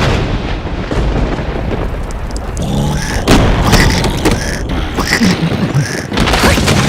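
Cartoon sound effects: a sudden loud boom that stays as a dense noise. From a little under three seconds in come squeaky gliding character vocalizations and several sharp hits.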